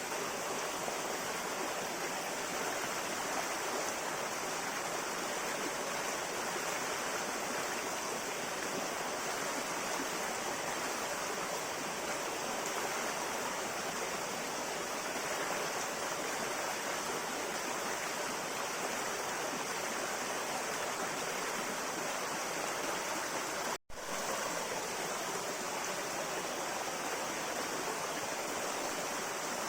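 River water flowing, a steady even rush. About three-quarters of the way through, the sound cuts out for an instant and resumes.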